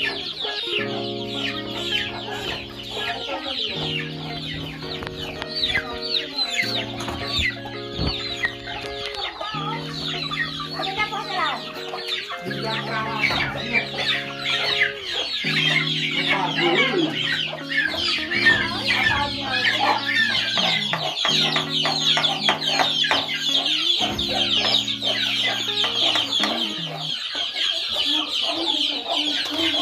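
A coop full of chickens clucking and chicks peeping continuously. Under them, background music of held low chords changes every couple of seconds and stops near the end.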